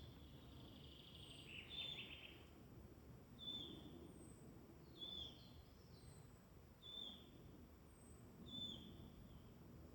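A songbird repeating a short, high call about every second and a half, with one longer warbled phrase about two seconds in, over a faint low woodland background hum.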